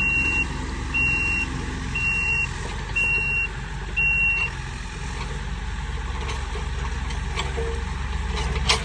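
Kubota SVL75-2 compact track loader backing up: its reverse alarm beeps five times, about once a second, over the steady run of its diesel engine, then stops and the engine runs on alone. A single sharp knock near the end.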